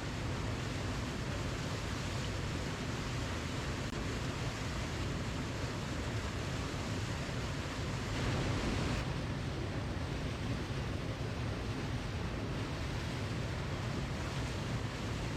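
Waterfall: a steady rush of falling water, briefly a little brighter for about a second near the middle.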